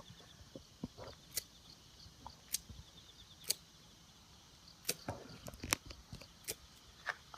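Scattered sharp clicks and snaps, about one a second, over a faint steady high-pitched hiss.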